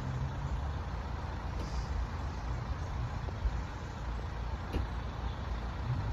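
Steady low rumble of road vehicle engines idling, with a faint click about three-quarters of the way through.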